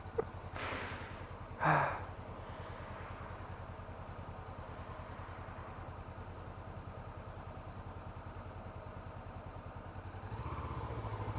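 2017 Honda CB500F's parallel-twin engine running at an even low throb, as at idle. It grows louder and fuller about ten seconds in. Two short breathy bursts of noise come in the first two seconds.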